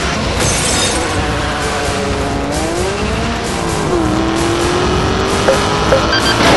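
Car engine running hard under music, its note wavering, dipping about three and a half seconds in, then climbing steadily as it accelerates. A short burst of tyre noise comes near the start.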